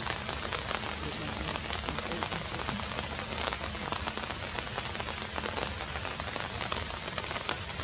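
Steady rain falling, an even hiss full of many small drop ticks.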